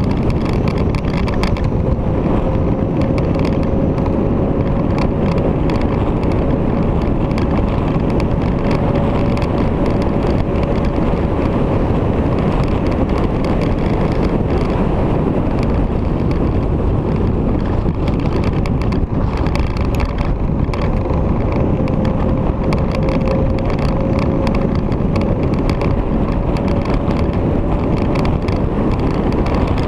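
Victory V-twin motorcycle on the move, its engine running steadily under heavy wind rush on the microphone. A faint whine holds near one pitch for long stretches, twice.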